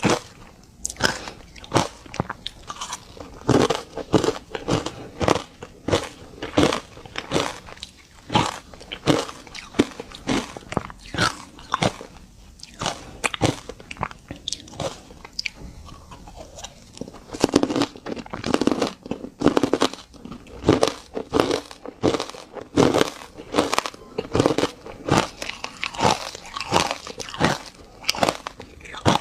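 Ice chunks coated in matcha powder being bitten and chewed close to the microphone: a dense run of sharp, irregular crunches, busiest a little past halfway.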